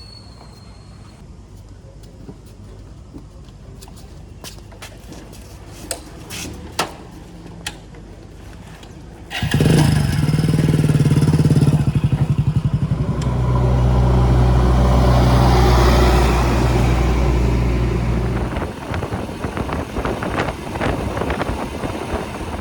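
JCB backhoe loader's diesel engine running low with a few knocks, then suddenly coming in loud about nine seconds in. It runs hard for several seconds and eases back near the end.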